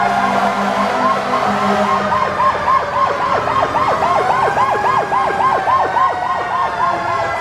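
Fire engine siren in a fast yelp, about four to five whoops a second, over a slower wailing tone that falls and then rises again.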